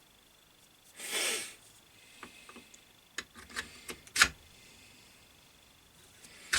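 Metal parts of a lathe fixed steady being handled: a short scraping rush about a second in, then a run of light clicks and knocks, the sharpest a little over four seconds in.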